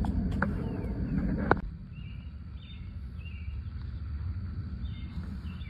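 Low rumble with a few sharp clicks, the loudest about a second and a half in, then the rumble drops away and faint short bird chirps come through over a quiet hum.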